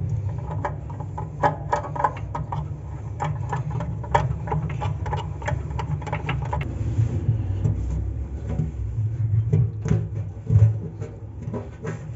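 Irregular clicks and light knocks of parts and tools being handled while taking apart a washing machine, over a steady low hum. The clicks come thickest in the first half and thin out later.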